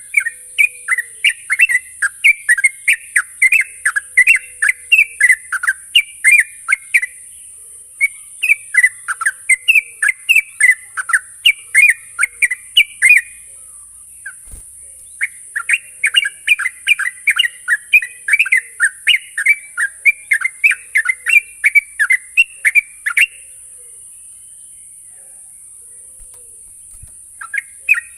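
Yellow-vented bulbul (trucukan) singing in long runs of rapid, chattering notes, several a second, broken by short pauses into three bouts; the song stops about two thirds of the way through and starts again near the end. A steady high hiss runs underneath.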